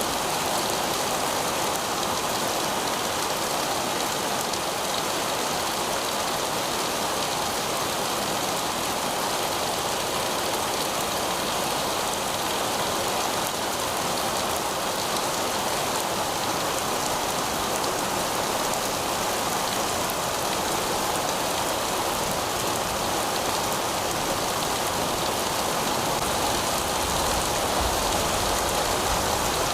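Heavy rain falling steadily on pavement: a dense, even hiss of drops with no let-up.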